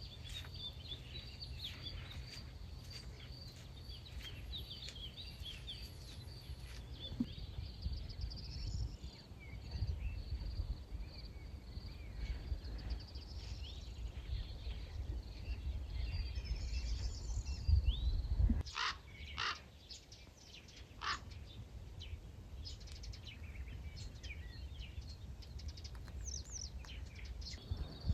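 Wild birds singing and chirping in open country, many short calls overlapping, with a few louder calls about two-thirds of the way through. A low wind rumble on the microphone runs under the birdsong and cuts off at about the same point, and a faint steady high tone sits behind it.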